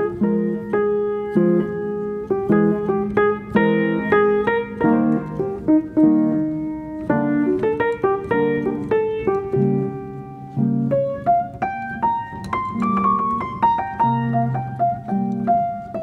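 Background piano music: a steady stream of single notes and chords.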